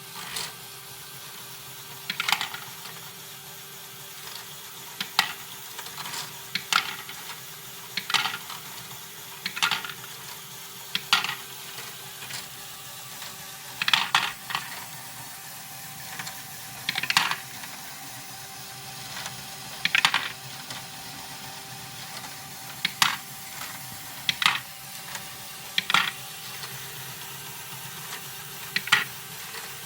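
LEGO Technic pneumatic stepper, a Great Ball Contraption module, cycling. A sharp plastic clack or clatter of its parts and balls comes about every one and a half to three seconds over a faint steady motor hum from the pneumatic pump.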